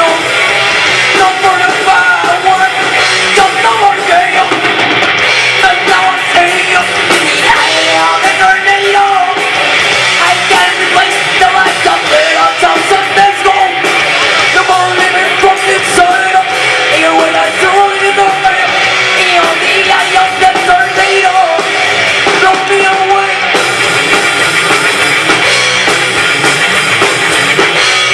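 Live rock band playing loud and without a break: drum kit, electric guitar and singing.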